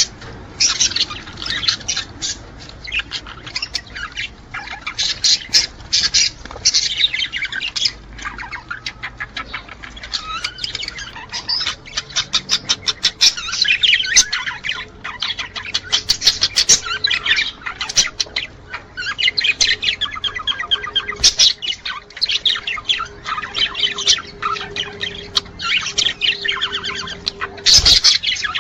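Budgerigars chattering and warbling in a continuous stream of quick chirps and squawks, with a fast run of clicking about ten seconds in. This is the male budgies' courtship warble.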